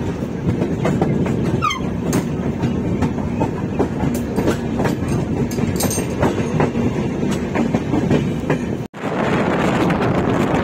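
Amritsar Swarna Shatabdi Express train running at speed, with a steady rumble and wheels clicking over rail joints and a brief falling squeal about two seconds in. Near the end it cuts to wind rushing over the microphone.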